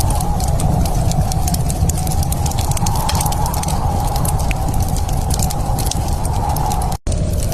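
Wood fire crackling in a fireplace: a steady low rush of flames with many small sharp pops and snaps. The sound cuts out for an instant near the end.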